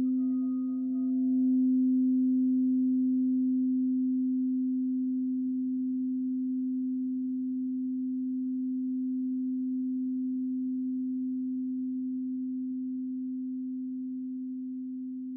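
Singing bowl ringing out in one low, nearly pure tone that slowly fades. Its faint higher overtones die away within the first second or so.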